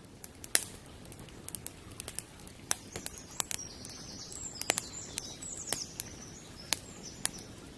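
Campfire crackling: irregular sharp pops and snaps over a steady low background rush. A bird chirps repeatedly in the middle.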